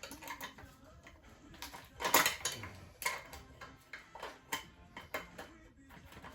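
Scattered metallic clicks and knocks from handling a Stihl MS 171 chainsaw's parts during disassembly. The loudest clatter comes about two seconds in.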